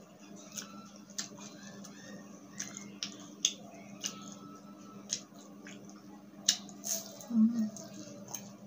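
Close-up biting and chewing of a crisp fried pork spring roll (lumpia): irregular crunchy crackles, loudest about two thirds of the way through, over a steady low hum.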